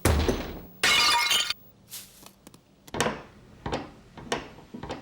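Cartoon crash sound effects: a heavy thud, then glass shattering about a second in, followed by four separate clattering knocks.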